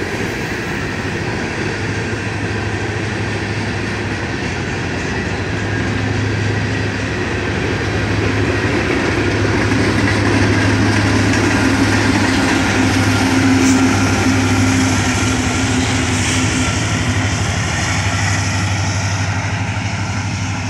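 BNSF coal train's freight cars rolling past on the rails: a steady rumble with a low hum underneath, growing louder toward the middle and easing off near the end.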